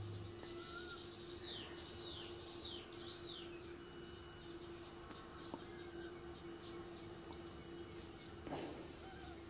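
Faint birdsong in the background: a few downward-sliding high chirps, then a quick run of short repeated chirps, over a steady low hum.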